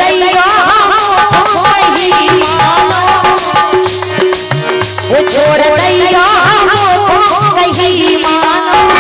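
Indian folk music with a wavering, ornamented melody over a steady held drone note. A low drum beat and rattling jingle percussion strike at an even pace, two to three times a second.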